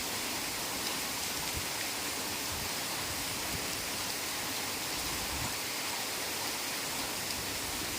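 Heavy rain falling steadily in a forest: a dense, even hiss with no distinct drops standing out.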